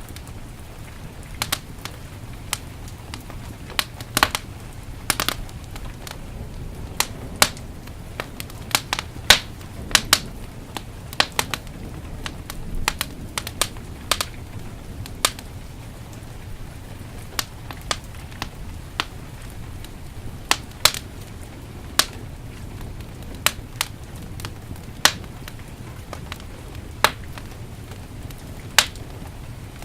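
Wood fire in a fireplace crackling, with irregular sharp pops, sometimes several in quick succession, over a steady low rush of heavy rain.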